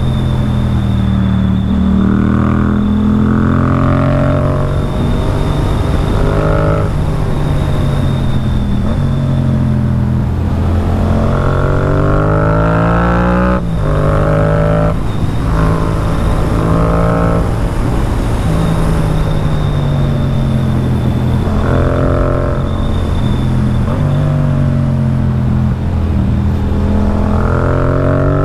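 Yamaha MT-07's parallel-twin engine pulling hard and easing off again and again, its pitch climbing under throttle and dropping away, once sharply about halfway through, over steady wind rush.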